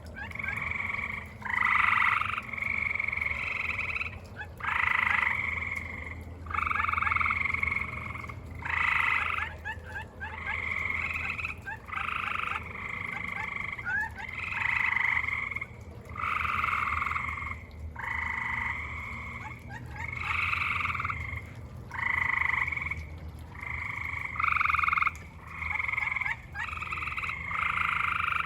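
Chorus of frogs calling, overlapping trills about a second long following one another almost without a break.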